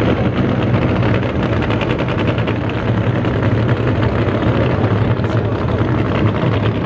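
Drag race car engine running loud through open exhausts, a rapid crackle of exhaust pulses over a deep steady note.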